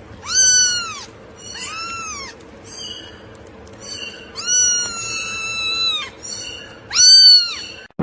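A cat meowing repeatedly: about five high-pitched meows, each rising then falling in pitch, with a longer drawn-out one about halfway through.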